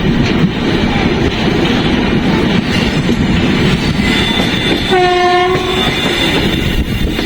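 Passenger train running on the rails with a steady rumble and clickety-clack of the wheels; about five seconds in, the locomotive's horn sounds once for about a second.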